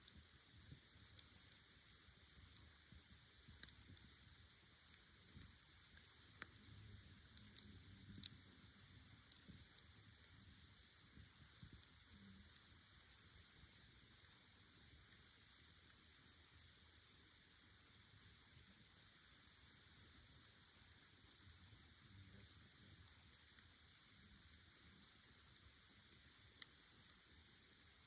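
Steady high-pitched chirring of crickets in a night chorus, with a few faint crackles from the campfire.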